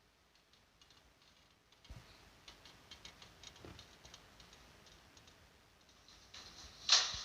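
Faint, irregular clicking and ticking in a quiet, hissy audio recording, then one short, loud noisy burst about seven seconds in.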